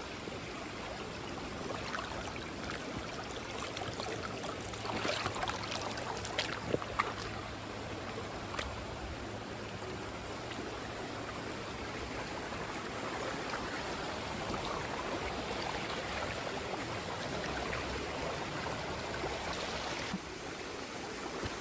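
River water running steadily, with a few brief sharper sounds about five to seven seconds in.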